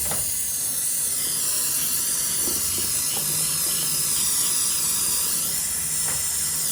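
Compressed air hissing steadily, with a faint low hum underneath.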